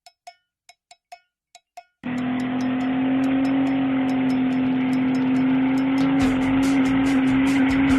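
Edited intro soundtrack: a few sparse ringing ticks, then about two seconds in a loud, steady, engine-like drone starts, with a quick regular ticking beat over it.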